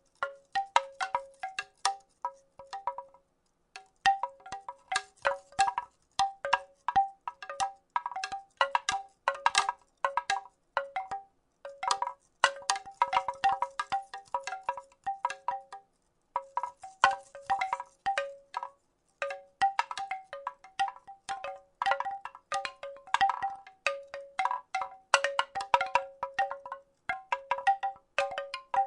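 Wooden rattle shaken continuously: a dense clatter of hollow wooden clicks, each ringing briefly on the same two low notes, with brief pauses about three seconds and sixteen seconds in.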